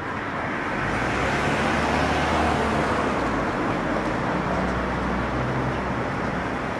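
Road traffic: a motor vehicle passing, a low engine hum under a rushing tyre noise that grows over the first second or two and then holds steady.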